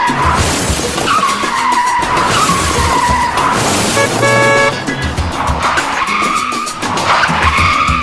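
Car tyre-screech sound effects: several squeals in a row, each sliding down in pitch, with a short horn honk about four seconds in.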